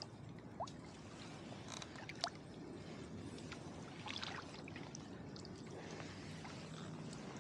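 Kayak paddling on calm water: water drips and trickles off the paddle blade, with a few small, sharp drops and splashes.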